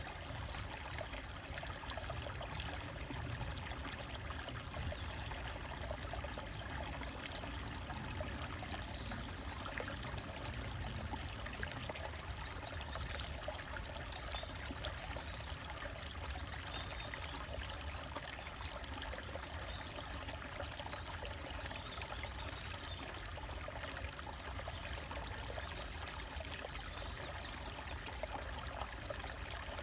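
Small forest stream trickling and gurgling over rocks, steady throughout, with occasional faint bird chirps through the middle.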